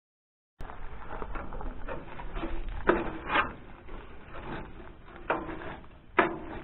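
Dry nest material rustling and scraping as it is pulled out by hand from in front of a tractor radiator, with a few sharper scrapes. It starts after a brief cut to dead silence.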